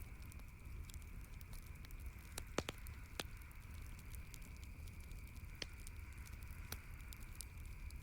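Campfire crackling: a stream of small pops with a few louder snaps, over a faint steady low rumble.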